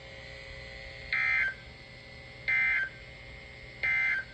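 NOAA Weather Radio SAME end-of-message data burst: three short, identical bursts of warbling two-tone digital chirps, each under half a second and about a second and a half apart. This signals the end of the severe thunderstorm warning alert.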